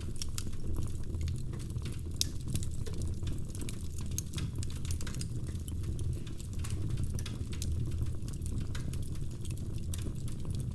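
Wood fire crackling in a fireplace: frequent small pops and snaps over a low, steady rumble of the flames.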